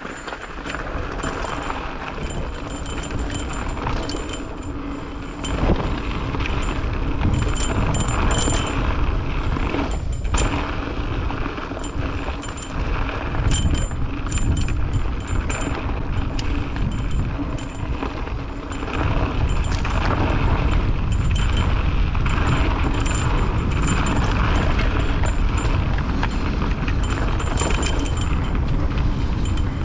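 Mountain bike riding down a wet dirt trail: steady wind rush on the microphone and tyre noise, with frequent rattles and clacks from the bike over rough ground. It gets louder and heavier from about two thirds of the way in.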